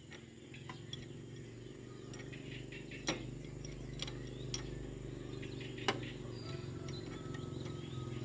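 Tractor engine running with a steady low pulsing note that grows louder, with a few sharp clicks or knocks over it.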